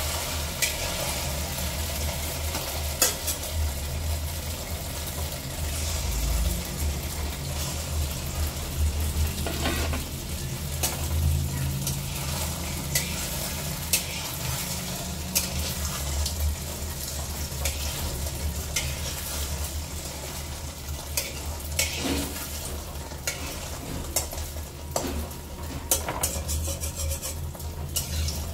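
Chhana (cottage-cheese) kofta balls deep-frying in hot oil in a metal kadai, sizzling steadily, with frequent light taps and scrapes of a long metal spoon as they are gently stirred. A low steady hum runs underneath.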